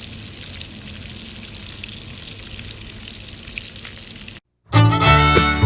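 Thick T-bone steak sizzling over a campfire, a steady hiss with a few small crackles. About four seconds in it cuts off abruptly, and after a short gap loud fiddle music begins.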